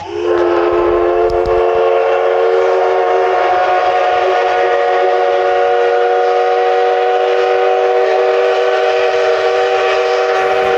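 Steam locomotive whistle, the Paleo Express's C58, sounding one long steady blast of several tones at once. It starts abruptly and lasts about ten seconds.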